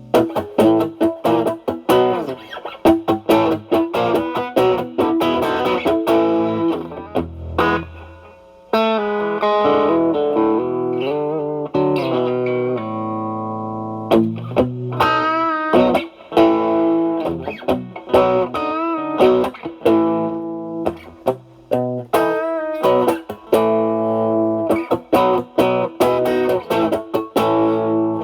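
Single-coil Stratocaster played through an Ibanez Tube Screamer Mini overdrive set to low drive (about 1–2) into the clean channel of a Marshall Valvestate amp, giving a lightly overdriven, nearly clean tone. It plays lead lines of quickly picked notes, with a stretch of longer held and slightly bent notes around the middle.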